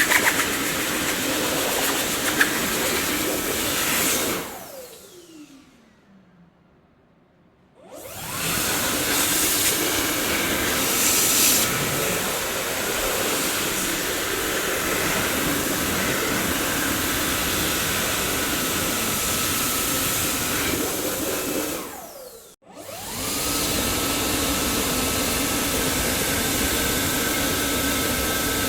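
Dyson vacuum cleaner motor running with a steady rushing whine. About four seconds in it is switched off and winds down in falling pitch to near silence, then restarts and spins back up about eight seconds in. Near the end it cuts out for a moment and spins straight back up, running on with a steady high whine.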